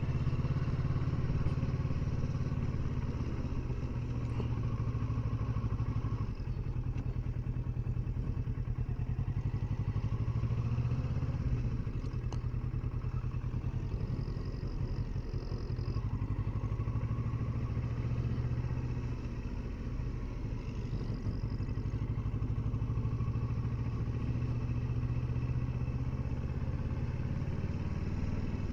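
Kawasaki Versys 650 parallel-twin engine running at a low, steady pace while riding, with small rises and dips in throttle.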